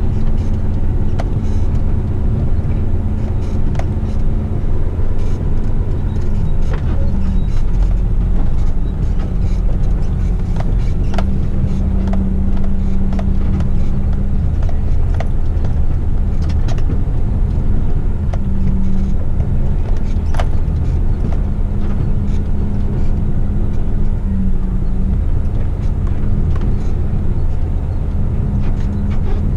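Heavy rigid truck's diesel engine running steadily while it drives slowly on a dirt road, its note shifting a little now and then. Scattered short clicks and rattles run through it.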